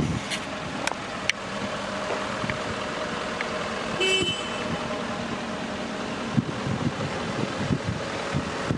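Steady running noise of a truck, with one short toot about four seconds in.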